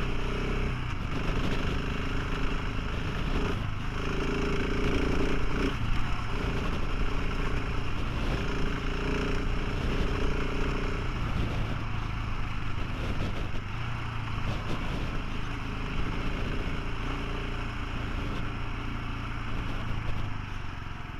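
Motorcycle engine running at speed, with heavy wind noise on the microphone. The engine note drops out briefly about every two seconds during the first half.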